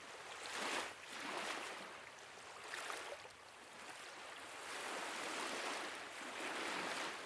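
Small waves washing gently on a loch shore, a faint soft hiss that swells and falls every second or two.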